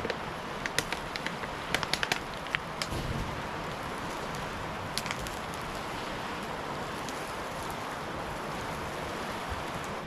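Newly lit wood campfire crackling, with a quick run of sharp pops in the first three seconds and a couple more about five seconds in, over a steady rushing background.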